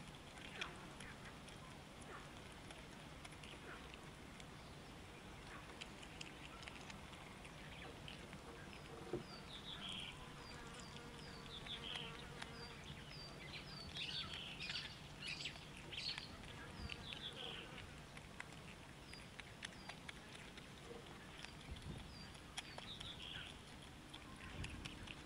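Birds chirping outdoors, with many short high notes that come thickest through the middle, over a faint steady hum and scattered soft ticks.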